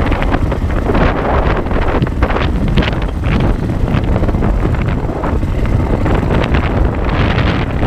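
Wind buffeting the microphone of an action camera on a moving dirt bike, with the motorcycle's engine running underneath. The sound is a dense, loud rumble with constant gusty crackles.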